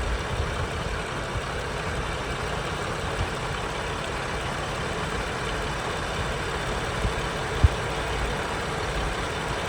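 2007 Ford Freestar's 4.2-litre V6 idling steadily, with no popping or gurgling from the air box now that a new idle air control valve is fitted. A single sharp knock sounds about seven and a half seconds in.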